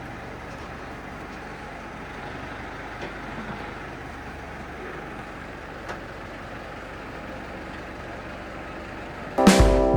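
Steady rumble of a running vehicle engine with a few faint knocks. Loud music with piano and drums comes in near the end.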